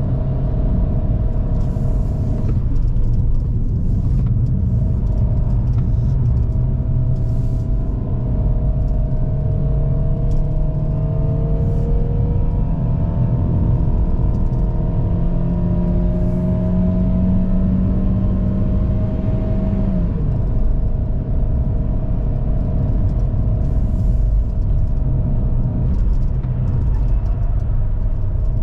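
GAC GS3's 1.5-litre naturally aspirated petrol engine pulling hard uphill under load, its revs climbing slowly for about twenty seconds, then falling away quickly. A steady road rumble runs underneath.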